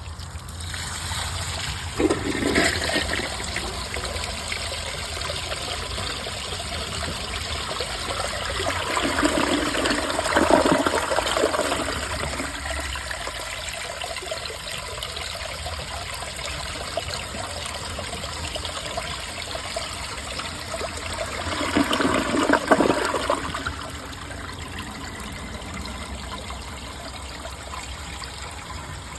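Water rushing through a 2004 Briggs Altima toilet, swelling louder about two, ten and twenty-two seconds in, over a steady low hum.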